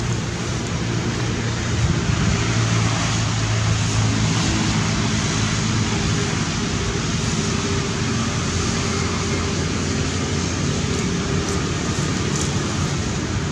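A motor running steadily: a constant low hum with a hiss over it.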